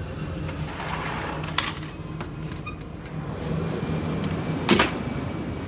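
Steady low background hum with two sharp clicks: one about a second and a half in and a louder one near the end.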